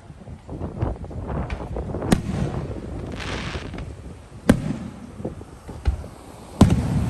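Fireworks going off: a string of sharp bangs, the loudest about two, four and a half and six and a half seconds in, over lower rumbling booms. A crackling hiss comes a little past the middle.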